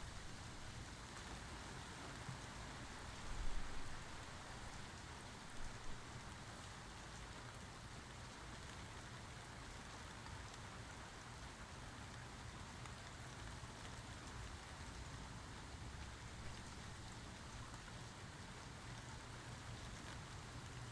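Steady rain falling and pattering on surfaces, with a brief low thump about three and a half seconds in and two softer knocks shortly after.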